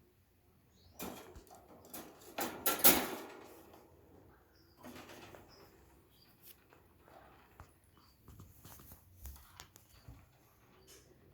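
A pet parrot moving about: a few short bursts of rustling, flapping noise, the loudest about three seconds in, followed by scattered light clicks.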